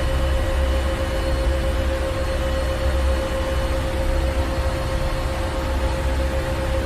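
Ship's engine room: the steady drone of running machinery, a deep rumble with a constant hum above it and an even hiss, unchanging throughout.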